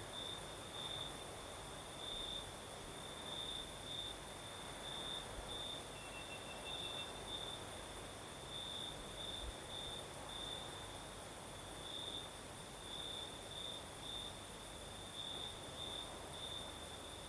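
Crickets singing: a continuous high-pitched trill that swells and fades in pulses, with a second, fainter cricket at a lower pitch joining briefly about six seconds in.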